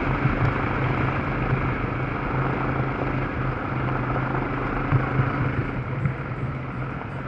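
Yamaha Serow's single-cylinder four-stroke engine running steadily as the motorcycle is ridden off-road, with wind and rolling noise and a couple of short knocks from the rough track.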